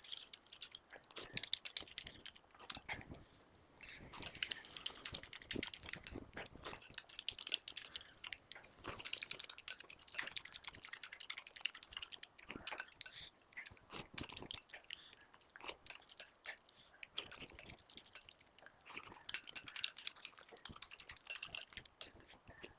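Close-miked eating: chewing with wet mouth sounds and many small quick clicks.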